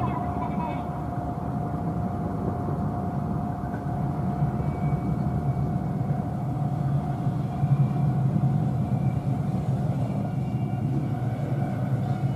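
A 115 series electric train approaching from a distance, a low rumble that grows stronger about a third of the way in. A steady high tone sounds at first and fades out about halfway.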